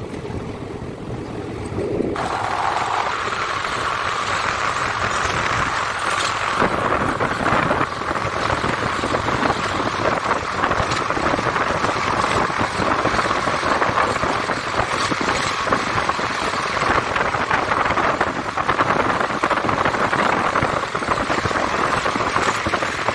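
Passenger train running at speed, heard from an open coach doorway: a steady rush of wheels on rail and wind, with a hissing ring that grows louder about two seconds in and then holds.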